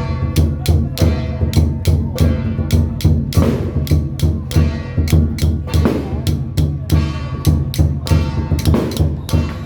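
Procession music driven by drums and cymbals, beating a fast, steady rhythm of about four strokes a second, with some held tones over it.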